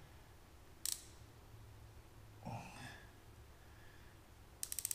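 Quiet handling noise from hand work on truck wiring: a single sharp click about a second in, then near the end a quick run of about a dozen rapid clicks, like a ratchet or a zip tie being pulled tight.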